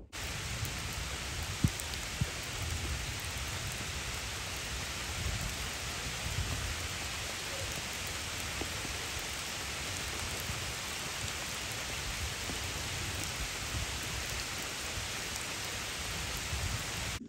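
Heavy rain pouring onto a lake's surface: a steady hiss of countless drops with a low rumble underneath. Two sharp taps stand out about two seconds in.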